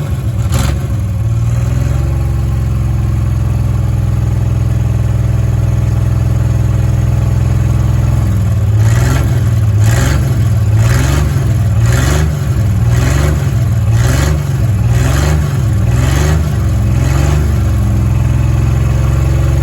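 1987 Dodge Dakota derby truck's engine idling steadily, then revved in short blips about once a second for some nine seconds before settling back to idle.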